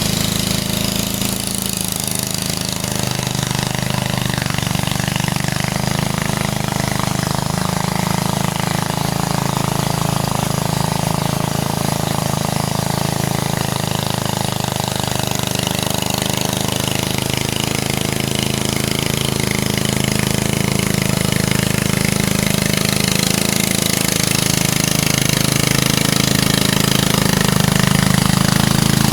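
Tractor engine running steadily, growing a little louder near the end.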